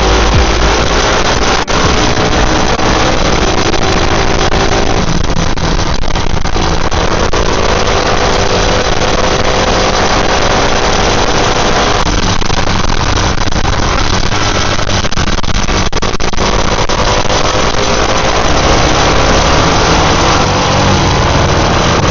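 Dual-sport motorcycle engines running, their pitch rising and falling as the bikes change speed, over a steady rushing noise.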